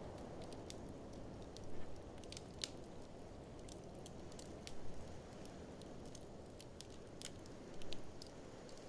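Wood fire crackling, with scattered sharp pops and small clusters of snaps over a steady low rush of blizzard wind.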